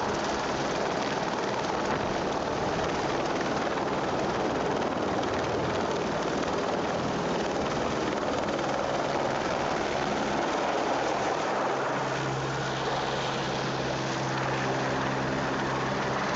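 Helicopter running, a steady dense rotor-and-engine noise, with a steady low hum coming in about twelve seconds in.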